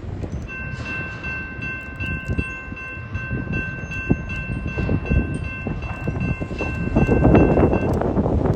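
Southbound Union Pacific intermodal train passing, its cars rumbling and clattering on the rails. A steady high-pitched tone is held from about half a second in until near the end, and the train noise swells louder near the end.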